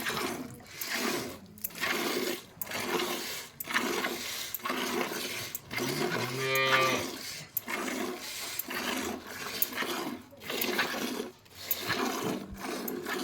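Cow being milked by hand: streams of milk squirting into a pail in a steady rhythm, about two squirts a second. The cow moos once, briefly, about halfway through.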